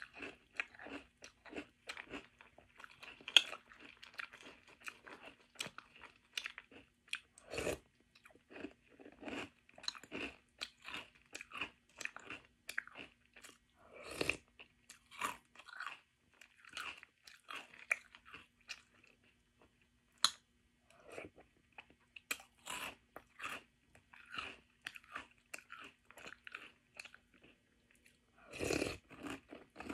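Close-up crunching and chewing of French Toast Crunch, a crisp sweetened corn cereal, eaten spoonful after spoonful, with a few sharper clicks among the crunches. A faint steady hum runs beneath.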